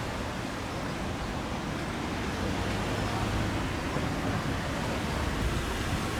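Steady, even rushing noise of an outdoor ambience, with no distinct events, slowly growing louder.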